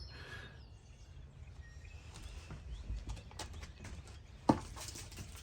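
A ball kicked once: a sharp thump about four and a half seconds in, amid faint scattered clicks and ticks.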